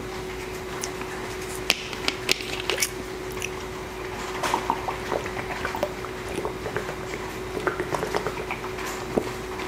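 Close-miked chewing and mouth sounds of someone eating black bean noodles and dumplings: a run of short, sharp clicks that grows busier about halfway through, over a steady low hum.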